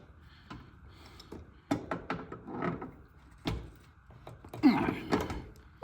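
Scattered knocks and clunks of parts and tools being handled while a hose fitting is screwed onto a propane heater, the loudest about four and a half seconds in.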